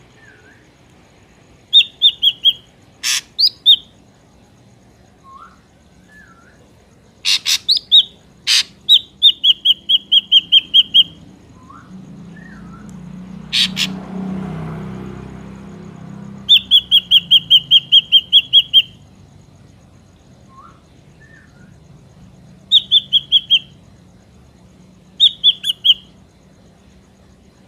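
Ashy drongo singing: bouts of rapid repeated whistled notes lasting a second or two, broken by sharp harsh notes and a few soft rising chirps. A low rushing noise swells and fades midway.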